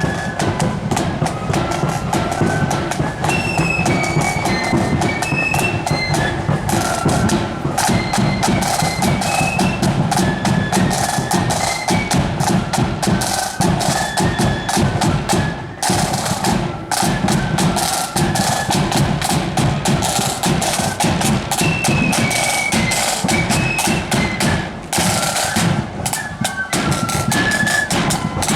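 Marching flute band playing: flutes carry a stepping melody over bass and snare drums beating steadily.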